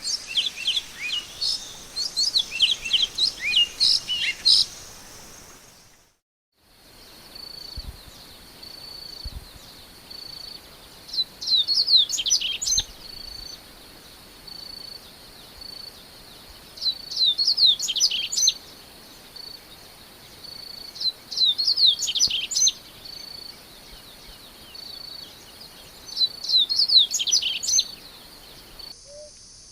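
Songbird singing: rapid high chirping phrases for the first few seconds, then a brief silence. After it, a songbird sings short phrases four times, about five seconds apart, over a steady thin high tone.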